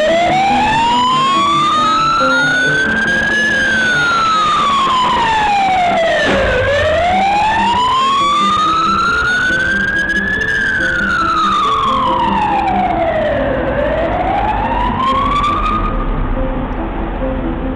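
An emergency vehicle siren sounding a slow wail, rising for about three and a half seconds and falling again, roughly seven seconds per cycle, over background music. The siren cuts off about sixteen seconds in, leaving only the music.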